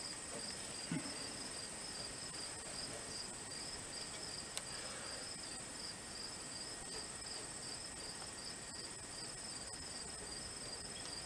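Crickets chirping steadily: a continuous high trill with a second, pulsing chirp a little lower in pitch. A faint single click about four and a half seconds in.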